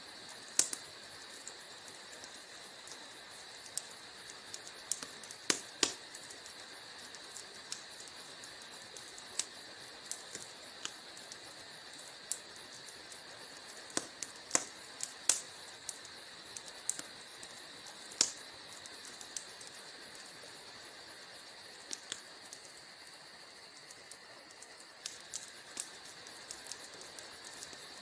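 Wood fire crackling in a fireplace: irregular sharp pops and snaps over a steady soft hiss of the burning logs.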